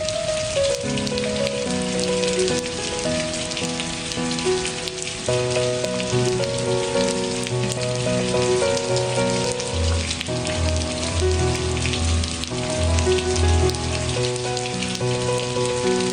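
Steady rain pattering, mixed with soft, slow instrumental music of held notes; deeper bass notes join about ten seconds in.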